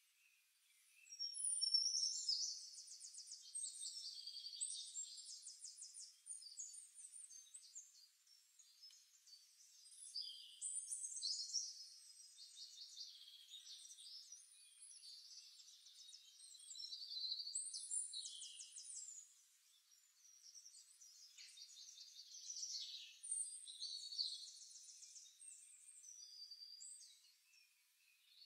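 Songbirds singing quietly: high, rapidly pulsed trills and chirps in phrases that come and go every few seconds.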